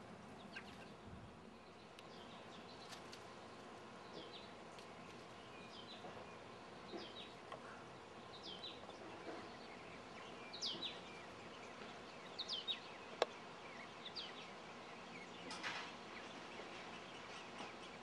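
Faint birds chirping: short, high calls every second or so. A single sharp click sounds about thirteen seconds in.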